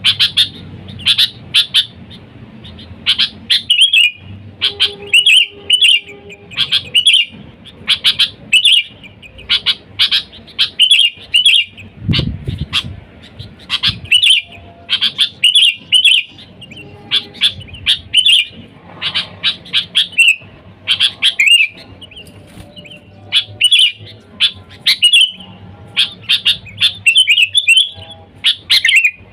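Sooty-headed bulbul calling loudly and busily: short chattering phrases of a few quick notes, one after another about every second. A single low thud about twelve seconds in.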